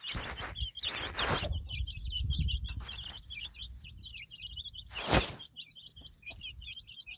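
Baby chicks peeping: a dense, continuous chorus of short high cheeps. Rustling noise in the first second or so, and a short loud rustle about five seconds in.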